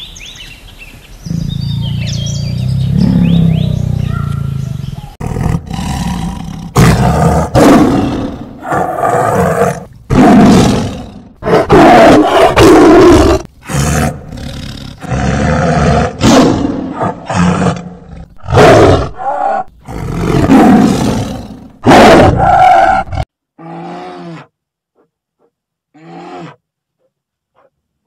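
A large wild animal roaring over and over, with a dozen or so separate loud roars one after another, then two faint short calls near the end.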